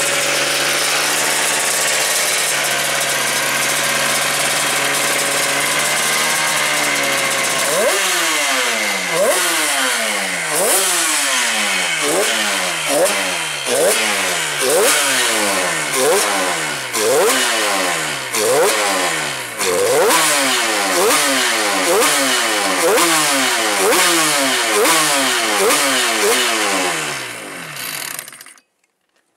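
Yamaha TZ two-stroke racing engine running on its first start-up after restoration: it runs steadily for several seconds, then is blipped about once a second, each rev jumping up and falling away, before it cuts off near the end.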